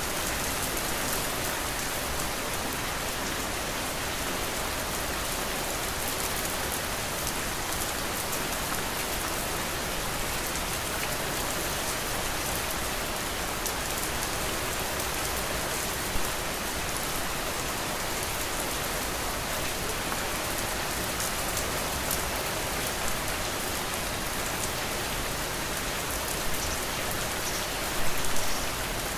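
Steady rain falling, a dense even hiss of drops on a surface, with a few brief louder taps, once about halfway and a cluster near the end.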